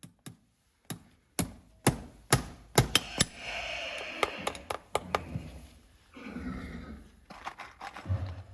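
A farrier's hammer striking in a quick series of sharp blows, about two a second and growing louder, then a few lighter taps, with a low thud near the end.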